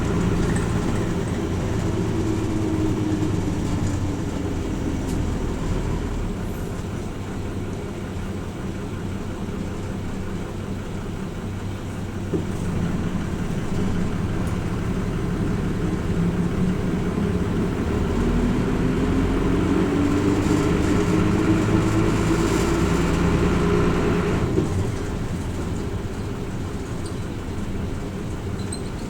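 Hino Rainbow RJ (P-RJ172BA) route bus heard from inside the cabin, its diesel engine running under a low rumble of road noise. The engine note falls over the first few seconds as the bus eases off, then rises steadily as it accelerates, and drops away suddenly about 25 seconds in.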